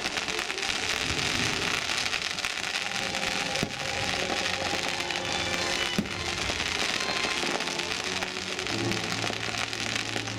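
Aerial fireworks going off in a dense, steady crackle, with two sharp bangs about four and six seconds in, over the show's music.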